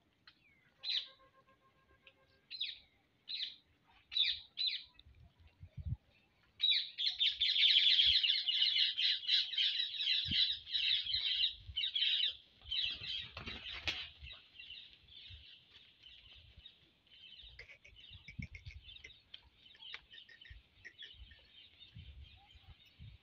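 Many small birds calling. A few separate chirps come in the first few seconds; then, about six seconds in, a dense chattering chorus sets in, is loudest for several seconds, and slowly thins out.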